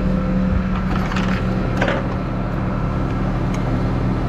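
Vehicle engine running steadily, with a few short metallic clinks and rattles between about one and two seconds in.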